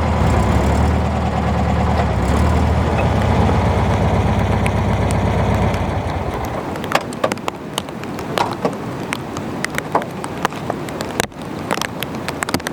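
A campervan engine idling steadily, then shut off about six seconds in. After it stops, rain drips and taps in scattered sharp ticks over a steady wash of rain.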